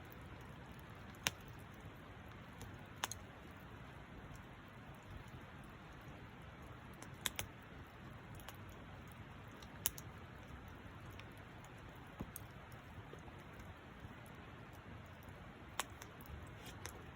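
Wood fire burning quietly, with a low steady rush and sharp pops and crackles from the burning wood every few seconds.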